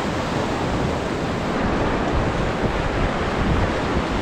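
Whitewater of the Trishuli River rushing steadily around a raft, with wind buffeting the microphone.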